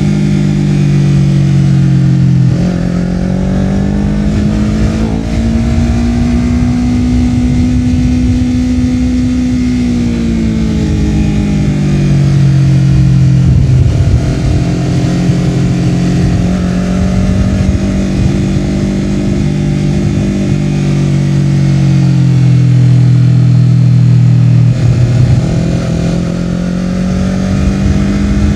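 Honda CBR250RR's parallel-twin engine through a Yoshimura R-11 slip-on exhaust while riding. The revs drop a couple of seconds in, climb slowly for several seconds, fall away around ten seconds in, wander, dip again later and pick up near the end, with low road and wind rumble underneath.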